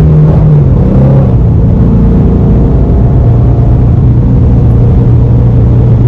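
Engine of a 2020 Shelby GT350, a 5.2-litre flat-plane-crank V8, running under way. Its note drops about a second in, then holds steady at a lower, even pitch.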